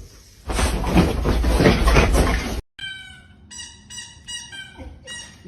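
A loud stretch of rough noise cuts off suddenly. Then a cat meows several short times in a row.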